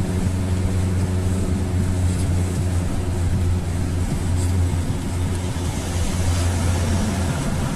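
GAZelle light truck engine pulling hard under load with a steady low drone, heard from inside the cab while overtaking.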